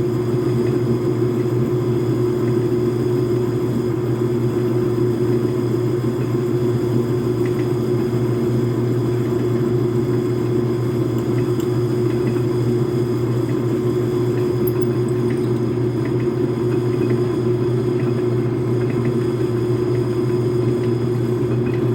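Metal lathe running steadily, a constant low hum with a steady higher tone over it, while a drill bit is put to the spinning shell mill cutter head.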